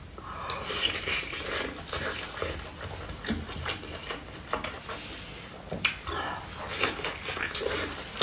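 Close-up eating sounds of braised beef tendon being bitten and chewed: irregular wet, sticky mouth smacks. Now and then a fork clicks against a plate.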